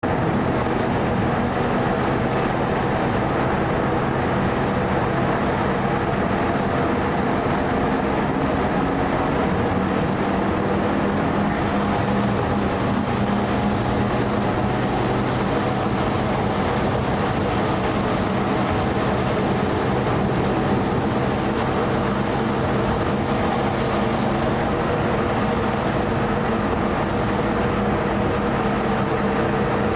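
Mitsubishi Lancer EVO IV's turbocharged 2.0-litre four-cylinder engine running at a fairly steady pitch, heard from inside the cabin with road and tyre noise.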